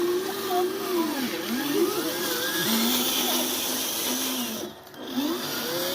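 Small electric motors of remote-controlled toy vehicles whining, the pitch gliding up and down, then holding steadier. The sound cuts out briefly near the end.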